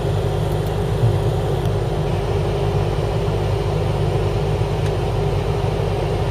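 Car engine idling, a steady unchanging hum heard from inside the cabin.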